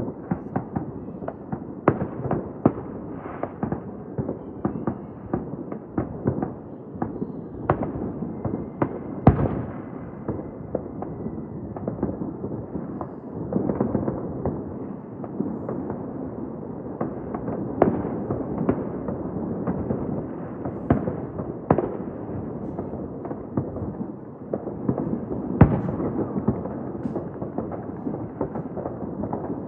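Many distant fireworks going off at once: a continuous rumble of overlapping bursts and crackle, with sharper single bangs standing out every second or so. The loudest bangs come about nine seconds in and near the end.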